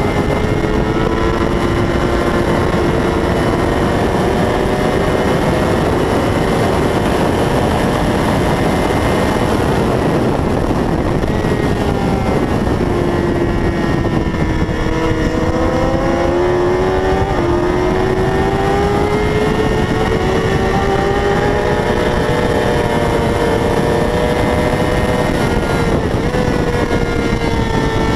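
600 cc racing motorcycle engine running at high revs, its pitch dropping and then climbing again with throttle and gear changes, over heavy rushing noise.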